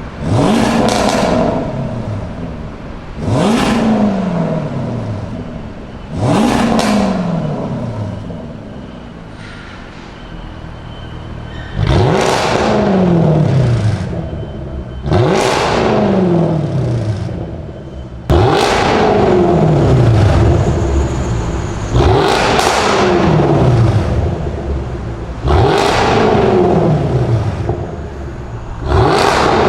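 Jaguar F-Type R's supercharged V8 with an aftermarket valvetronic exhaust being revved in repeated blips, about nine in all, roughly every three seconds; each rev jumps up sharply and the pitch then falls back as it settles, a few held a little longer.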